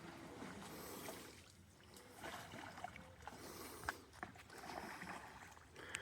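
A canoe being worked across a fallen tree in the water: faint sloshing swells of water with a few light knocks against the hull.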